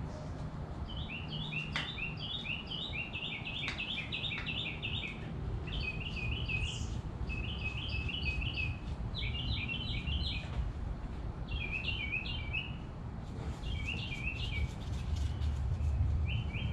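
A songbird singing in repeated short, rapid trilled phrases, in bouts every second or two, over a steady low hum, with a few faint clicks.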